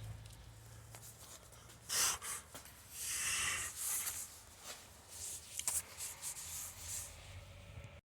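Rubbing and scraping handling noises with scattered light clicks and knocks, the longest scrape from about three to four seconds in, over a faint low hum; the sound cuts out completely just before the end.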